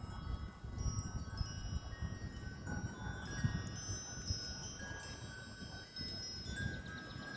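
Wind chimes ringing in strong wind: many overlapping, long-ringing metallic tones struck at irregular moments, over a low rumble of wind.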